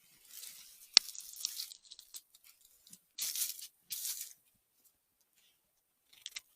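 Rustling and crunching of forest undergrowth in several short bursts, with one sharp snap about a second in.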